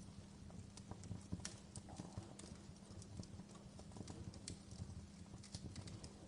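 Wood fire crackling in a fireplace: irregular sharp pops and snaps over a steady low background.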